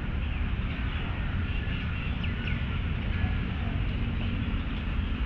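Small birds chirping in short calls over a steady low rumble of wind and distant city noise.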